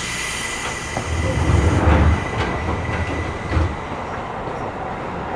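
Seibu New 2000 series electric train running at speed, heard inside the car: a sudden rise in rushing noise at the start with a thin high steady whine, a low rumble that swells a second or so in, then a few sharp knocks of the wheels over rail joints.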